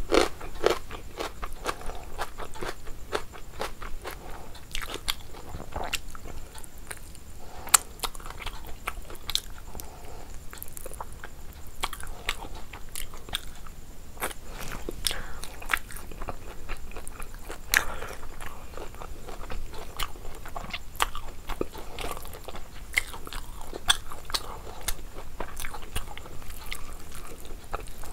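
A person chewing and biting food, with irregular crunches and sharp clicks all through.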